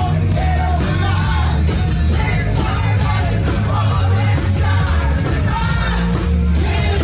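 Hard rock song playing at full level, with a lead singer over heavy bass and drums.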